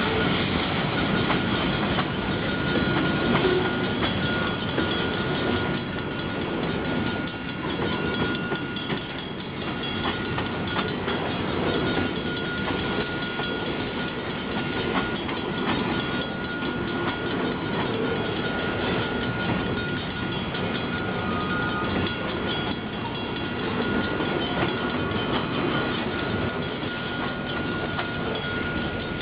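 Freight train cars rolling past at close range, boxcars and then centerbeam flatcars loaded with lumber, making a steady rumble and wheel clatter. A faint, thin high tone runs underneath.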